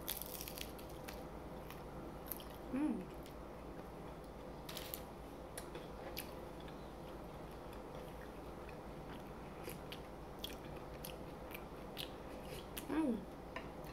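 Close-up biting into a crispy fried crab rangoon with a crunch at the start, then chewing with small wet mouth clicks. Two short falling hums of the voice break in, about three seconds in and near the end.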